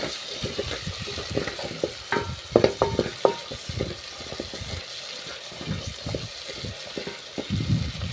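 Tomato-and-onion masala sizzling in a cooking pot as it is stirred, with a run of ringing spoon-on-pot clinks about two to three seconds in.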